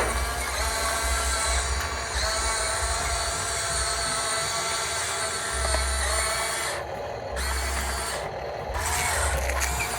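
Electric motors and gearboxes of radio-controlled construction models whining as they run, with several steady tones over a low hum that switches on and off. The whine cuts out briefly twice in the second half.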